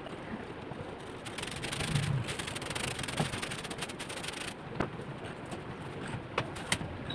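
A drawing tool rubbing and scratching across paper in a long stroke lasting about three seconds, followed by a few light taps.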